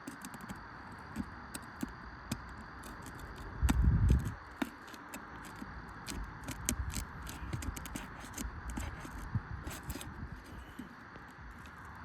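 Scattered light clicks, ticks and scrapes of hand work on a roof shingle, over a steady hiss. A louder low thump comes about four seconds in.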